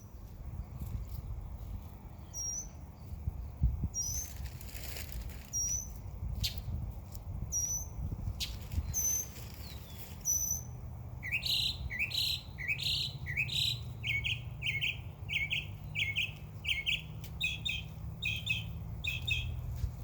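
Backyard birds chirping: short high chirps repeat every second or two, and about halfway in another bird starts a quick series of rising notes that settles into a steady run of paired notes, about two a second, stopping near the end. A low rumble runs underneath.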